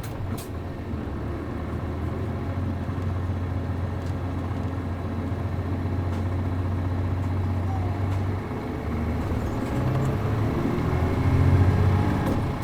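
Route bus's MD92TJ diesel engine pulling away from a stop, a steady low engine note under load. About eight seconds in it dips briefly, then pulls harder and grows loudest near the end.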